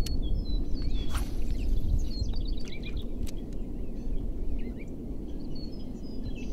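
Small birds chirping now and then over a steady low rumble, with a few sharp clicks.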